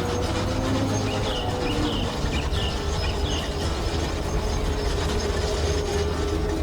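Construction machinery sound effect: a steady mechanical rattling and clatter over a constant hum and low drone. Four short falling chirps come between about one and three and a half seconds in.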